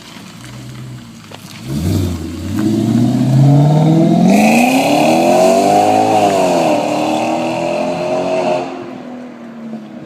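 Audi S4's 4.2-litre V8 through a custom 2.5-inch cat-delete exhaust with resonators, accelerating hard. The pitch climbs for a few seconds, peaks about six seconds in, drops slightly and holds, then the sound fades out near the end.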